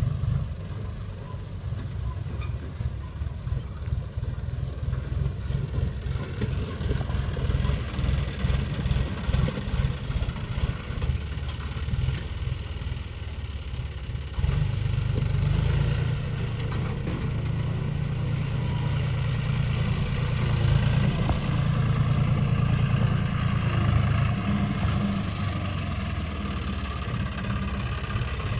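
Tractor diesel engine running steadily with a throbbing low note, growing louder about halfway through.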